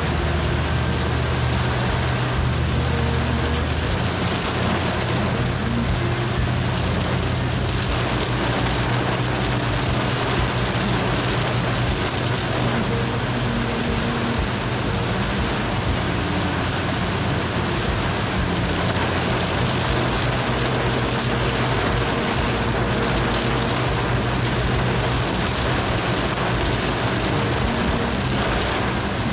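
Heavy rain pelting a car's windshield and roof, heard from inside the moving car. A steady low engine and road hum runs underneath.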